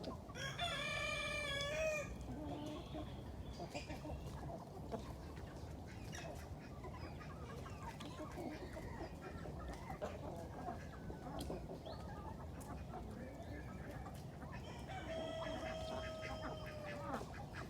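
A rooster crows twice, once near the start and again near the end, each a long call of a second and a half to two seconds. Chickens cluck in the background.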